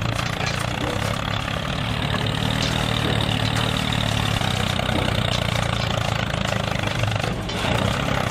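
Small motor of a DIY mini tractor running steadily with an even, low drone while it drags a seed drill's tines through sand.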